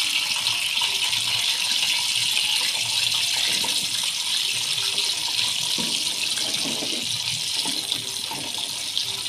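Sliced jengkol (dog fruit) frying in hot oil in a wok: a steady, loud sizzle.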